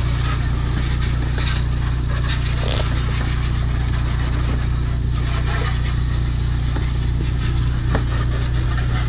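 Car engine running steadily at an unchanging low hum, with no revving.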